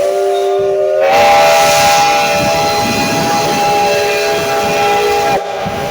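Loud steam locomotive whistle giving one long blast with hissing steam. It opens on a single note, swells into a full chord of several notes about a second in, holds steady, and cuts off sharply near the end.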